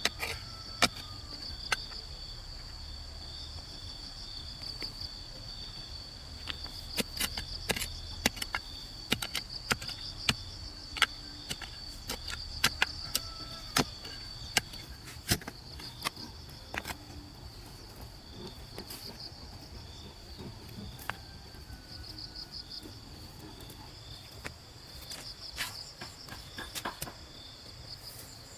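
Insects chirping steadily in a high, pulsing drone, with irregular sharp knocks and clacks scattered throughout, most of them between about 6 and 17 seconds in.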